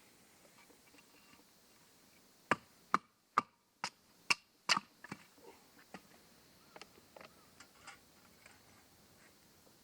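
A run of six sharp knocks over about two seconds, followed by lighter scattered clicks and taps, typical of chopping or splitting work.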